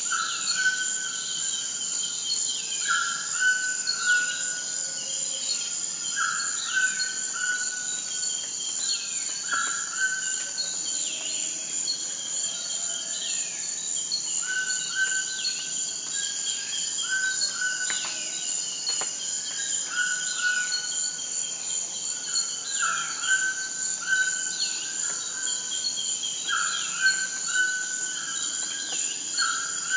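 Steady high-pitched insect chorus, with a short call repeating about every second or so and scattered falling chirps over it.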